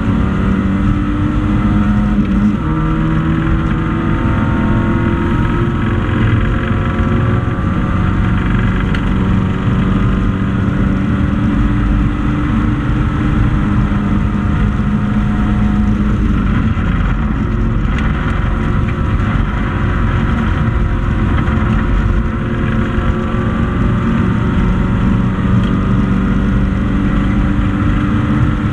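Race-prepared four-cylinder hatchback engine running hard, heard from inside the stripped cabin, with road and wind noise. The revs rise and fall a few times, with a pitch drop a little over two seconds in and another change about halfway through.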